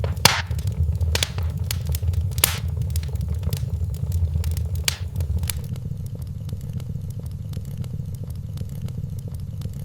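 Wood fire crackling in a fireplace, with sharp pops of burning logs over a low, steady rumble. The pops come often in the first half and thin out after about halfway.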